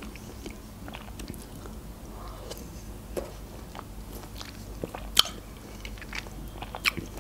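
Close-miked mouth chewing food, with scattered soft wet clicks and a sharper click about five seconds in and another near seven.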